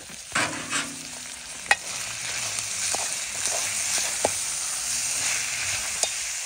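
Food sizzling as it fries in a pan, with a few sharp clicks as it is stirred.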